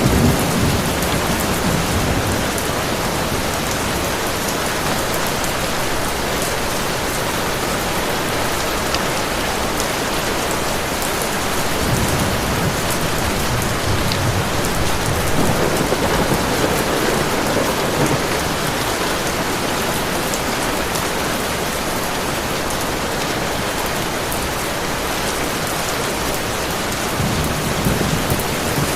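Steady heavy rain, with low rolls of distant thunder swelling several times, around halfway through and again near the end.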